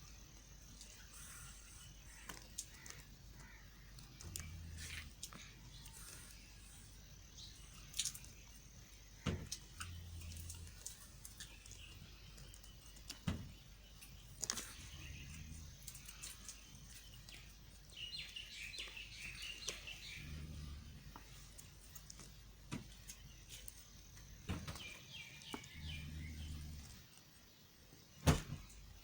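A knife cutting into a bar of white soap: scattered sharp clicks and soft cuts, spaced irregularly, the loudest click near the end. Birds chirp faintly in the background now and then.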